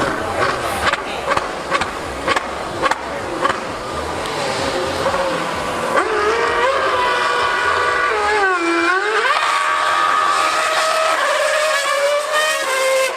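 Screaming V8 of a 2013 Formula 1 car at high revs: a high-pitched engine note that climbs, drops sharply about nine seconds in as it comes off the throttle and shifts down, then climbs again and holds. In the first half, a regular beat about twice a second.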